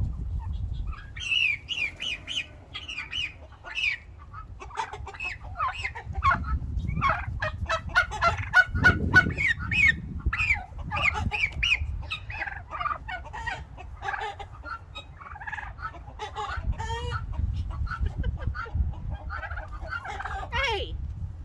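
A flock of domestic turkeys calling and clucking excitedly, many short calls overlapping, with a quick run of sharp calls about eight to nine seconds in. The birds are worked up by being caught and leg-banded. A low rumble runs underneath.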